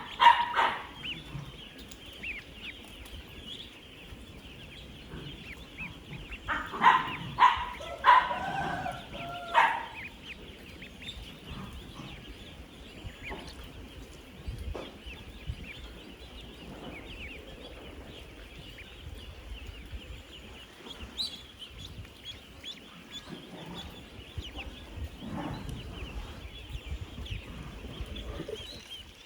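Thousands of ten-day-old ducklings peeping all at once in a dense, continuous high chorus. Louder animal calls stand out at the very start and again from about seven to ten seconds in.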